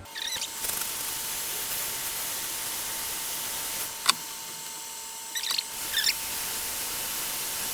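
Hot-air rework station blowing a steady hiss with a constant whistle-like tone, heating a chip on a PS5 circuit board to lift it off. A sharp click comes about four seconds in, and a few short high squeaks come near the start and again around five to six seconds in.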